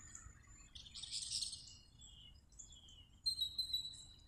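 Small birds chirping: a busy cluster of high chirps about a second in, then short, high notes repeated from about three seconds in.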